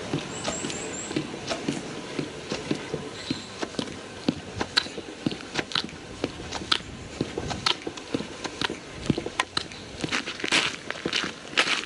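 Footsteps on a park path: irregular scuffs and clicks that grow busier near the end, with a few short high chirps about half a second in.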